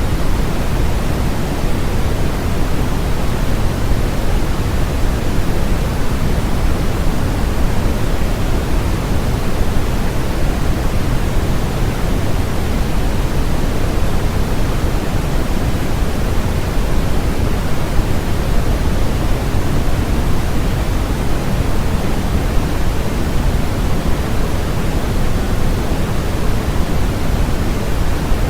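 Steady, unbroken synthetic noise of the kind sold as white noise, its energy weighted toward the low end, so it sounds deeper than a flat hiss.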